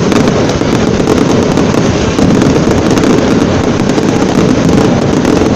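Fireworks in a dense barrage: many shells bursting in quick succession, merging into a loud continuous rumble and crackle.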